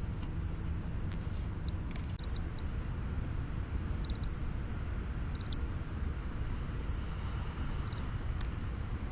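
Small birds at a window feeder giving scattered short, high chirps over a steady low rumble.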